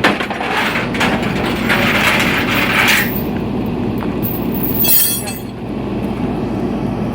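Truck engine running steadily with its PTO engaged. A hiss comes over the first three seconds, and a sharp metallic clank about five seconds in.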